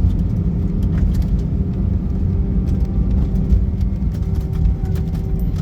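Cabin noise inside a British Airways Airbus A319 taxiing after landing: a steady low rumble from its CFM56 engines and the airframe, with a faint steady hum and a few light clicks.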